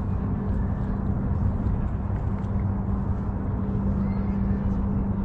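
Steady low engine drone with a constant hum, heard over a rumble of wind and water-side ambience.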